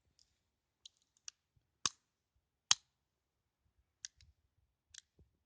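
Sharp metal clicks from a P.08 Luger pistol being handled: the magazine being pushed fully home and the toggle being worked. There are about seven clicks, with the two loudest clacks a little under two and three seconds in.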